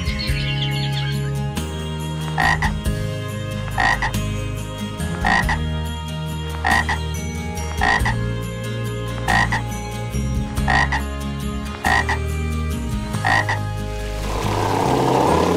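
A short animal call repeated nine times, about one every one and a half seconds, over low background music. Near the end a rushing noise swells in.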